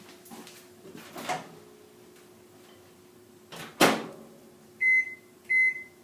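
Microwave oven door shut with a sharp clack, followed by two short, high keypad beeps as the cooking time is entered.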